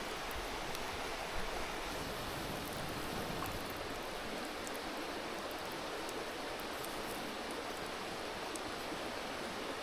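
Mountain river babbling, a steady rushing murmur of flowing water.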